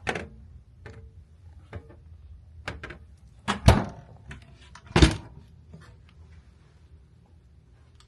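Small cabin fridge door being handled: scattered clicks and knocks, with two louder thuds about three and a half and five seconds in as the door is opened and shut.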